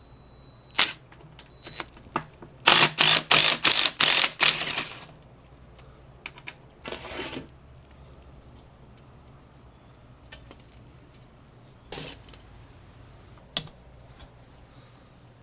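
A tractor seat being taken apart by hand with tools: a quick run of about seven sharp knocks, then a short scraping rustle and a few scattered single clicks.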